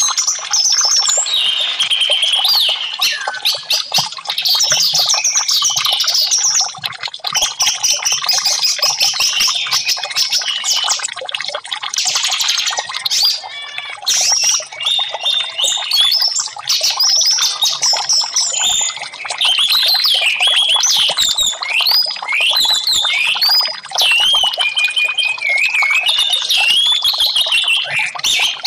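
Orange-headed thrush (anis merah) singing almost without a break: a fast, varied run of high whistled notes, glides and short trills.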